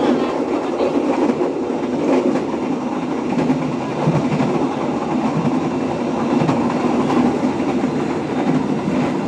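Moving train heard from the rear of its last car: a steady wheel-on-rail rumble with some clicking as the wheels run over the track.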